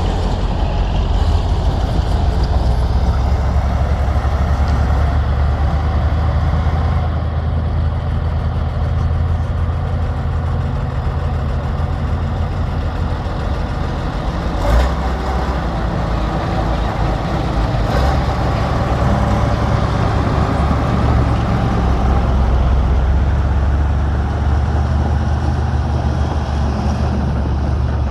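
Hanomag MF600C crawler bulldozer's diesel engine running under load, a steady low drone that swells and eases as the machine works. Two sharp knocks cut through about halfway through, three seconds apart.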